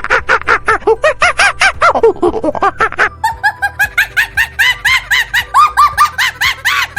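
Monkey chattering: a rapid run of short, arching calls, about seven a second, that shift higher about three seconds in.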